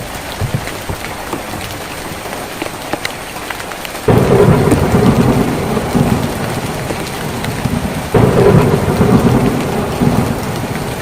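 Rain pattering on a tin roof with scattered sharp drop clicks. About four seconds in and again about eight seconds in, the sound suddenly gets louder with a deep rumble that slowly eases off.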